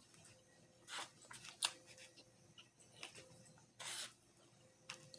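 A few short, faint scrapes and rustles of a utensil working through pork fried rice in a takeout container, with one sharp click about one and a half seconds in.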